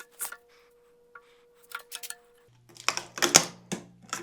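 Metal tools clinking and knocking against a cast-iron engine as the cylinder head is worked loose, with a cluster of louder knocks about three seconds in. A low steady hum starts midway.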